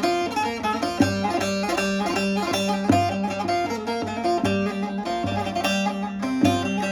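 Short-neck bağlama (saz) with a mulberry-wood bowl being played: a quick run of plucked notes over a repeated low note, with strong accented strokes every second and a half or so.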